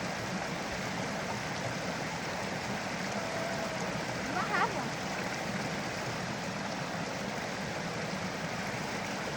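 Creek water flowing with a steady rushing sound. A brief high gliding sound stands out about four and a half seconds in.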